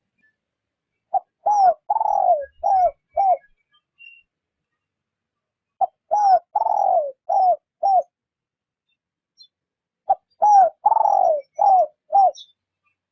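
Spotted dove cooing: three phrases about four to five seconds apart, each of five short falling coos with a longer one in the middle.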